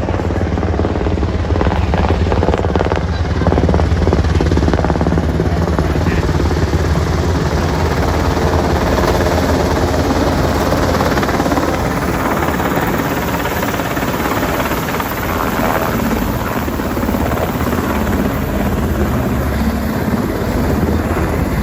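Helicopter running loud and steady close by, its rotor and engine noise easing slightly after about twelve seconds.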